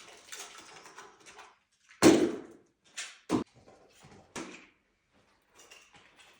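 Household knocking and rustling while tidying up: a soft rustle, then a loud bang about two seconds in, followed by a few shorter, sharper knocks.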